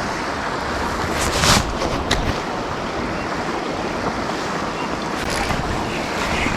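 Steady rushing noise of stream water and falling rain, with a brief louder rush about a second and a half in.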